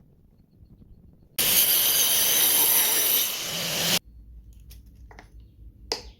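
Angle grinder cutting, a loud whining grind that starts abruptly about a second and a half in and stops just as sharply about two and a half seconds later. A couple of small clicks follow near the end.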